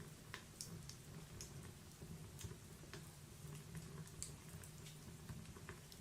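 Wood fire in a log-burning fireplace crackling faintly: scattered small pops and ticks, irregular, over a low steady noise of the burning logs.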